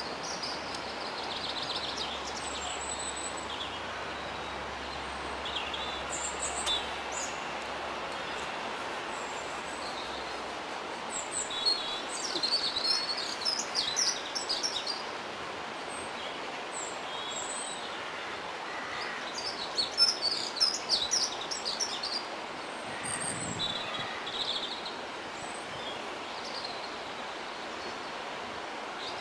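Small songbirds chirping in short bursts over a steady outdoor background hiss. A low rumble fades out about a third of the way in.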